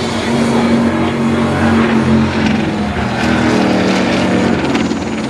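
Indy-style race car engine running, its pitch stepping up and down a little.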